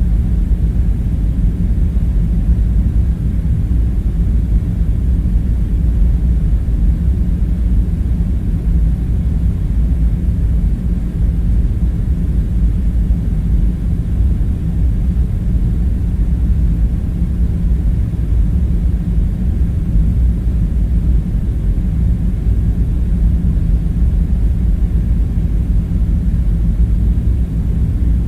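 Steady low hum of the bunker's ambient background, like machinery or ventilation running, with no distinct events.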